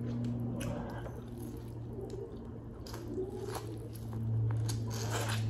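Close-up mouth sounds of biting and chewing a piece of corn on the cob coated in seafood-boil sauce: scattered wet smacks and crunches, the loudest about five seconds in, over a steady low hum.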